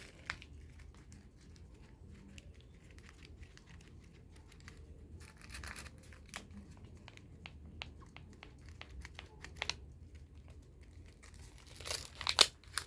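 Paper handled by hand: scattered crinkles and small crackles, with a louder flurry of crinkling near the end.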